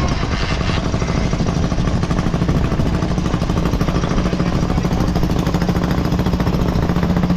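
Motorcycle engine running steadily, with a rapid, even throb and a held engine note that neither rises nor falls.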